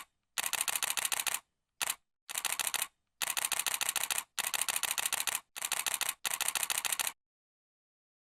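Camera shutter firing in continuous bursts, several runs of rapid clicks at about ten a second with short pauses between them, ending about seven seconds in.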